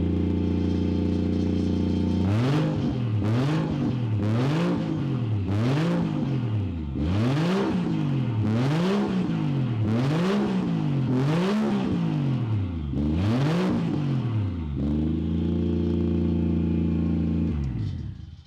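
Toyota 1JZ straight-six engine through an open exhaust with only a catalytic converter and no silencers, idling loudly, then revved up and down in a long run of quick blips before settling back to idle. The sound cuts off sharply near the end.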